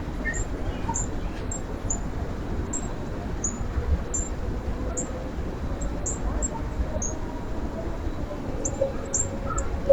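Small birds giving short, very high, thin chirps, repeated about once or twice a second, over a steady low rumble of outdoor background noise.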